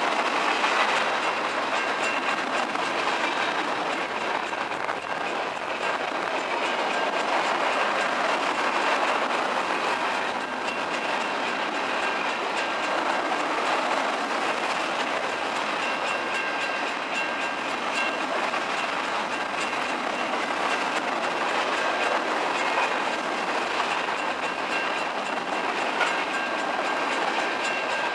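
Mixed freight train of tank cars, boxcars and hoppers rolling past close by at a steady speed: the steady rumble and rattle of its wheels on the rails, with a thin high whine coming and going.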